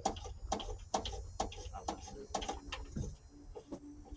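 Steady clicking, about two sharp clicks a second, over a low hum.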